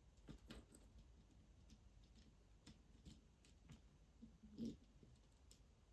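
Near silence: room tone with a few faint clicks and taps, one slightly louder tap about two thirds of the way through.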